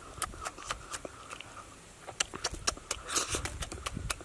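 A person chewing a mouthful of cooked fish and leafy greens: many wet smacks and clicks at an irregular pace, in two bouts.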